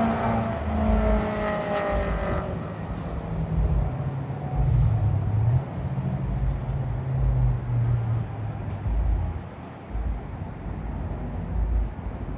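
Car engines: an engine note that drops slightly in pitch and fades over the first two seconds or so, like a car passing, then a low, uneven engine rumble.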